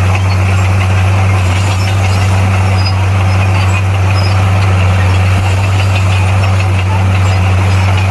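Bulldozer's diesel engine running steadily with a deep, even hum, holding the same speed throughout.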